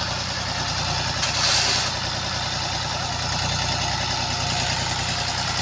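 Tractor diesel engine idling steadily, with a brief hiss about a second into the sound.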